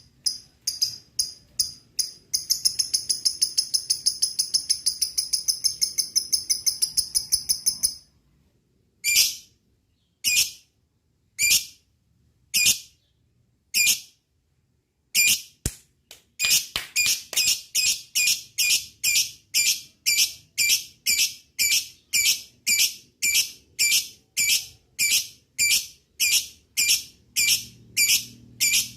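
Lovebird calling: a few short chirps, then a fast rattling trill of about six seconds, the long chatter that keepers call ngekek. After it come single sharp calls spaced a second or more apart, which from about halfway through settle into a steady run of about two calls a second.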